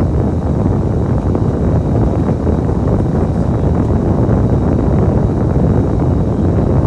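A Kowloon Motor Bus running, a steady low rumble of engine and road noise.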